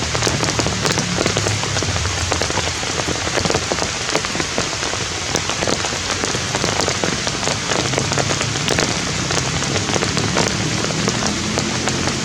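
Steady heavy rain, with many individual drops tapping close by.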